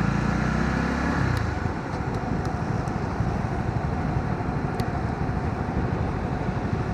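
Honda CB125R's single-cylinder engine running on the move, with steady wind and road rumble. An engine note is clear in the first second or so, then fades into the low rumble.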